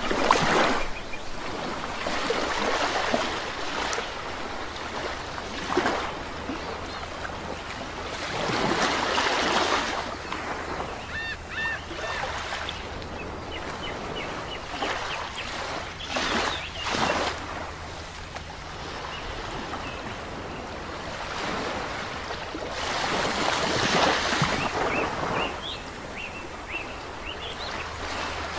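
Sea waves breaking and washing up a shore, rising and falling every few seconds, with a few short bird calls in between.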